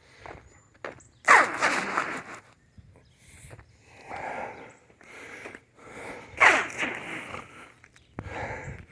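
Crows cawing outdoors: two loud harsh bouts, about a second in and again past six seconds, each call sliding down in pitch, with quieter crunching footsteps on icy ground between.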